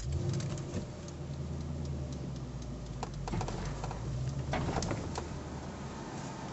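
2012 Ford Mustang GT's 5.0 V8 on its stock exhaust, running steadily at idle, with scattered light clicks over the low exhaust note.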